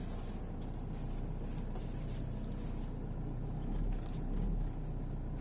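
Toyota Innova diesel engine running steadily at idle, briefly louder and deeper about four seconds in.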